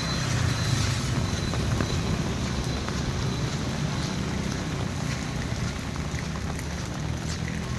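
Steady monsoon rain over a low, even rumble, with faint scattered ticks of drops.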